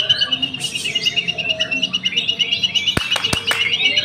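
White-rumped shamas (murai batu) singing, several songbirds overlapping with a rapid, high, steady trill and varied chirps. Two or three sharp clicks about three seconds in.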